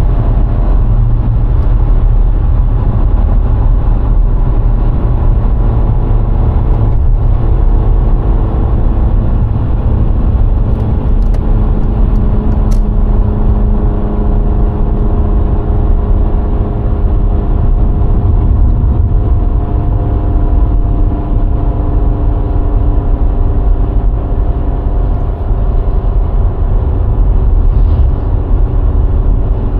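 A VW Golf IV's 1.6 petrol four-cylinder runs steadily while the car drives along, over a heavy, constant rumble of road and tyre noise. The engine note shifts slightly in pitch now and then.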